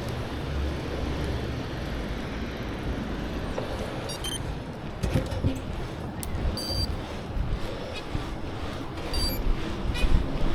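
Wind rushing over the microphone of a moving bicycle, a steady low rumble, with a few short high-pitched chirps and scattered clicks.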